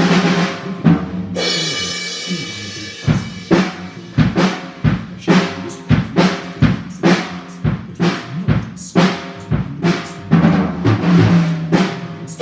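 Drum kit played loosely: a cymbal crash about a second in, then a run of uneven drum hits, two or three a second.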